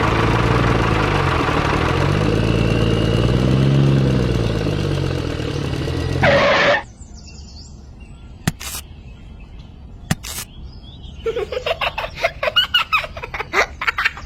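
A small engine running and revving up and down twice, then cutting off suddenly about halfway through. Two sharp clicks follow, then a burst of giggling laughter near the end.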